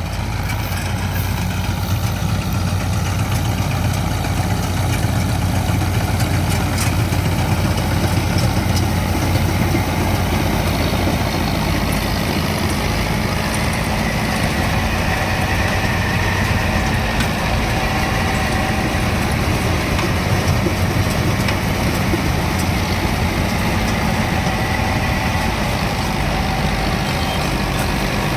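Tractor-mounted combine harvester running steadily while cutting rice paddy: a constant engine drone with a low hum.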